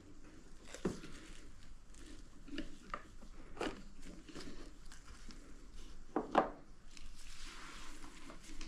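Light handling noises: scattered clicks and knocks, with a close pair of sharper knocks about six seconds in, over a faint steady hum.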